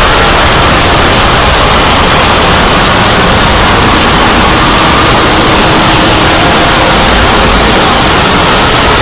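Loud, steady static-like noise across the whole range, with a few faint held tones showing through. It is heavily distorted, clipped audio.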